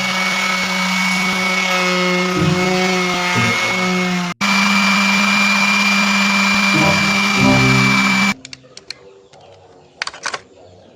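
A small electric power-tool motor, such as a drill's, running steadily in two runs of about four seconds each, with a brief break between them, and stopping about eight seconds in. Background music plays underneath, and a few light clicks follow near the end.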